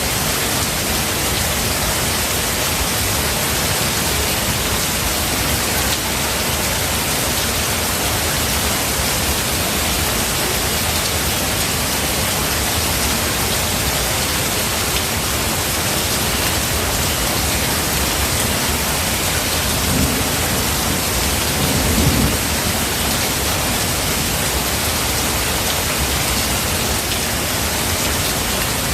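Steady rain falling, with two short low rumbles of thunder about twenty seconds in, two seconds apart.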